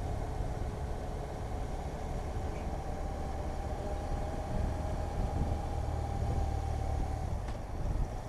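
Motorcycle riding at a steady speed: an even engine drone with low road and wind rumble, and a faint click near the end.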